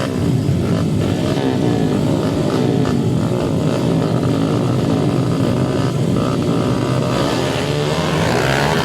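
Several motocross bike engines revving up and down together, their pitches overlapping as the bikes race around a flat track.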